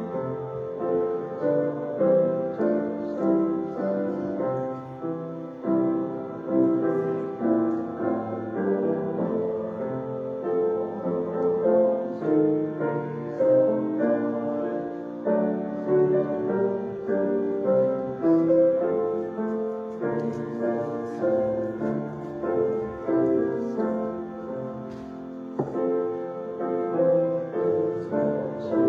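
Piano playing a slow instrumental piece.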